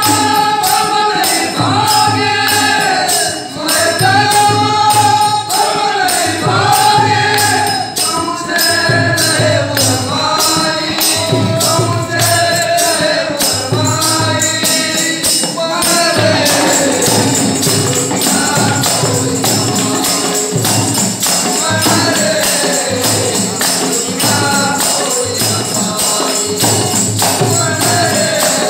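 Ektari bhajan music: a melody that bends like singing, over fast, steady jingling hand percussion that sounds like a tambourine.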